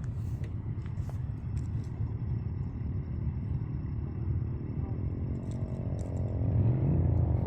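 Motor vehicle engine rumbling steadily, with a vehicle drawing closer and growing louder over the last couple of seconds.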